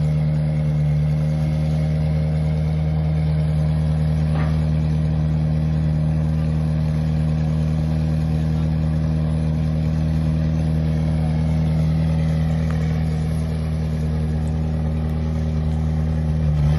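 A car engine idling steadily at an even pitch, with no revving.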